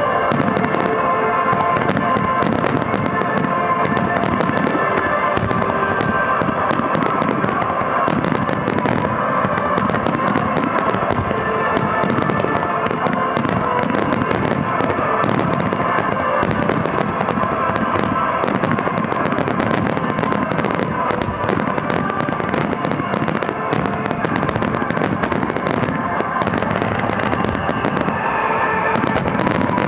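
A dense barrage of aerial firework shells bursting in rapid, continuous succession, many sharp bangs overlapping, with the show's music playing underneath.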